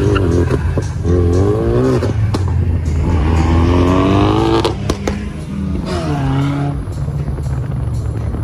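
Ford Focus RS's turbocharged four-cylinder engine revving hard in repeated pulls. Its pitch climbs and falls several times, with the longest climb about halfway through, cut off sharply with a crack.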